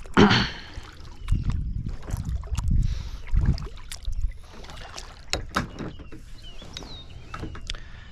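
Kayak paddling: irregular paddle strokes swishing through the water, with light knocks of the paddle scattered between them.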